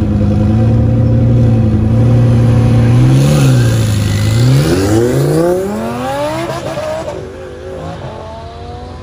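Twin-turbo Lamborghini Huracan V10 held at steady revs on the drag-strip start line, dipping briefly. It then launches, its engine note rising steeply as it accelerates away. The note fades with distance, with a gear change and a fresh rise near the end.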